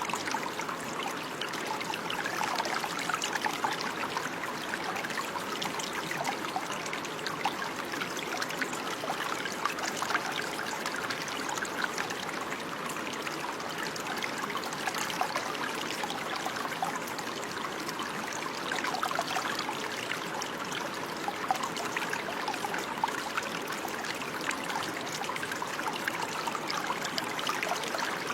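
Running water flowing and trickling steadily, a stream-like babble with many small splashes and gurgles.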